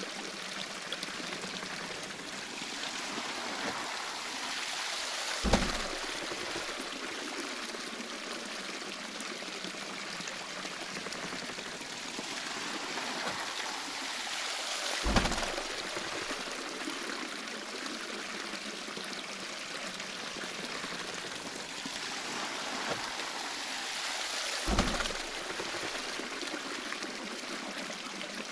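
Water pouring and splashing steadily at a traditional waterwheel. A dull thump comes three times, evenly spaced about ten seconds apart.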